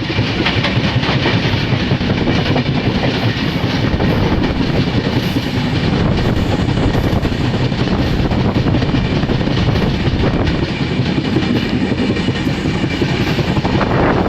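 Train running on the rails: a loud, steady rumble with no letup.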